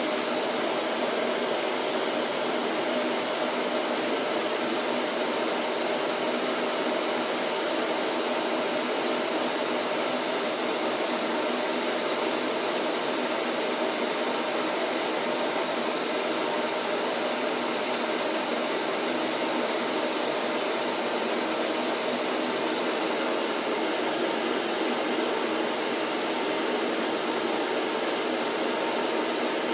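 Electric vacuum cleaner running steadily: an even whooshing motor noise with a faint hum, unchanging in pitch and level.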